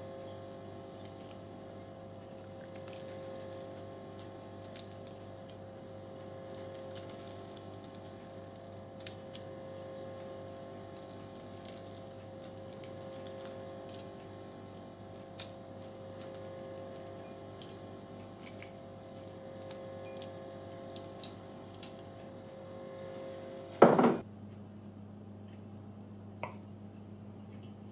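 Quiet kitchen food-preparation sounds: scattered faint taps and clicks over a steady appliance hum. About 24 seconds in there is one loud clunk, after which the hum drops to a single lower tone.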